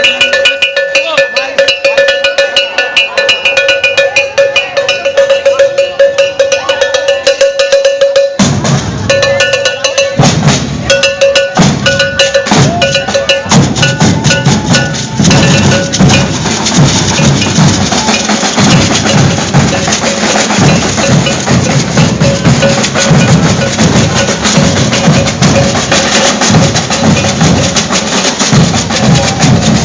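Maracatu de baque virado percussion: iron bells and snare drums strike a steady pattern over a held high tone. About eight seconds in, the deep alfaia bass drums come in and the full ensemble plays on together.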